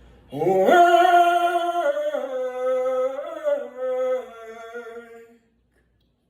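A single voice singing a slow, wordless phrase. It slides up into a held note, then steps down through a few long sustained notes and fades out about five seconds in.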